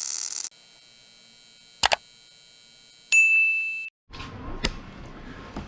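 Chime-like intro sound effect: a short bright hiss, then ringing tones with a click about two seconds in, and a sharp high ding about three seconds in that cuts off suddenly. After it, background noise with a few sharp knocks.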